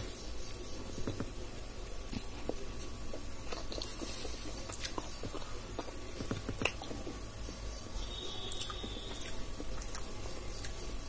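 A person chewing a mouthful of food, with soft, irregular wet mouth clicks.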